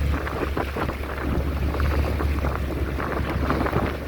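Strong wind buffeting the microphone on a small boat in a rough sea: a steady low rumble under gusty, uneven noise.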